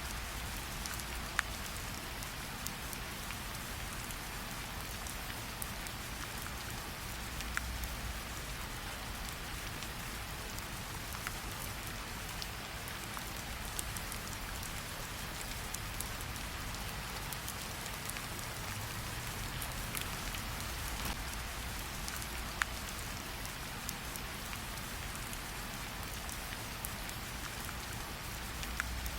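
Steady rain falling, with a few sharp pops scattered through it from a crackling campfire.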